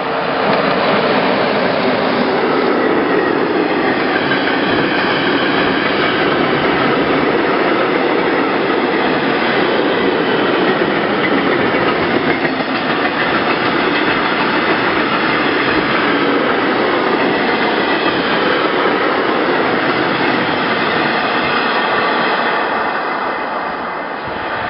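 Train headed by a Class 143 electric locomotive passing, with a loud, steady rolling noise of steel wheels on the rails that eases off slightly near the end.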